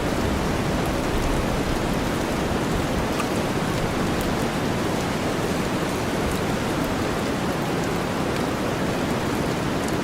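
Steady rain mixed with deep white noise: an even rushing hiss with faint drop ticks in the treble.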